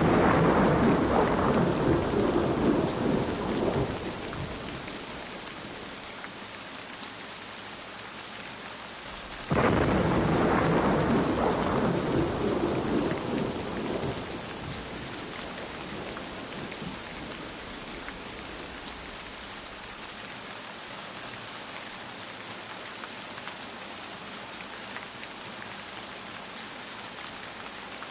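Steady rain falling, with two claps of thunder: one right at the start and one about ten seconds in. Each starts suddenly and rumbles away over about four seconds.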